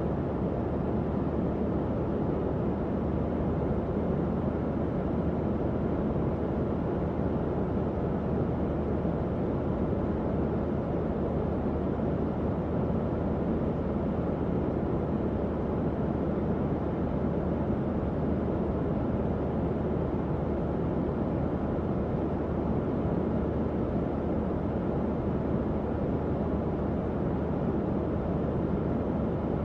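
Tower fan running steadily: an even, unchanging whoosh of moving air, strongest in the low and middle range, with a faint motor hum underneath.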